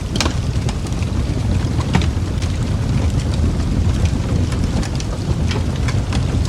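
Wood fire burning in a fireplace: a steady low rumble with scattered sharp crackles and pops, a few louder than the rest.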